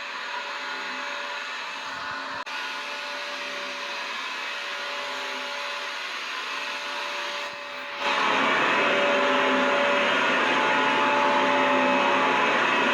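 Vacuum cleaner running continuously: a steady rush of air with a constant motor whine. It jumps noticeably louder about eight seconds in, then holds steady.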